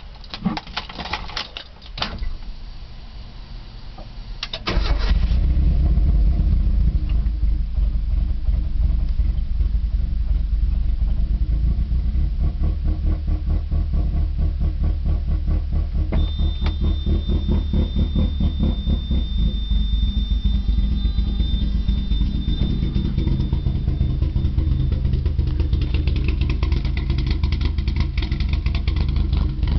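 1997 Mazda Miata's inline-four engine, fitted with GSX-R600 individual throttle bodies on a MegaSquirt ECU, started for the first time. A few clicks come first, then about five seconds in it fires and settles into a steady idle that runs low. A thin high whine joins about halfway through.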